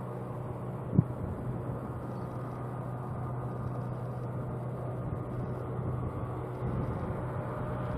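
A Class 66 diesel locomotive's two-stroke V12 engine runs with a steady low hum. A single sharp thump comes about a second in.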